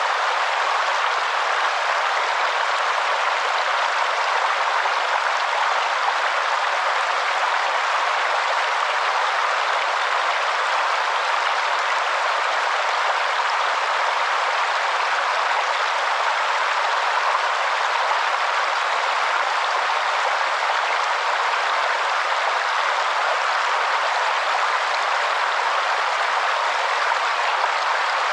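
Waterfall: a steady rush of falling water, even and unbroken, with no deep rumble.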